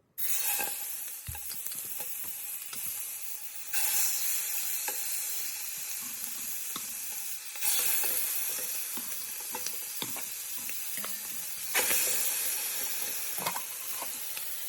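Marinated chicken thighs sizzling in a hot pan with a little oil. The sizzle starts suddenly and swells again about four, eight and twelve seconds in, as each further piece is laid into the pan.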